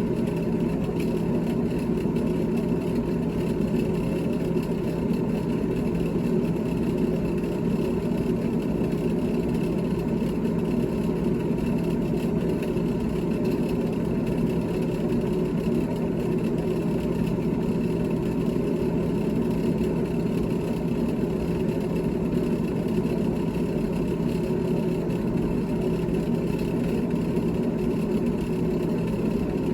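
GE GTH18XCTZRBB refrigerator running: a steady mechanical hum with several held tones that neither rise nor fall.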